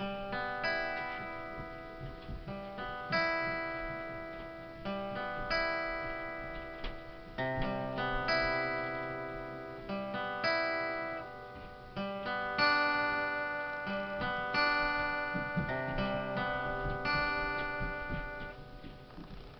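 Solo acoustic guitar playing slow picked chords, about one a second, each ringing and decaying. The last chord rings out and fades near the end.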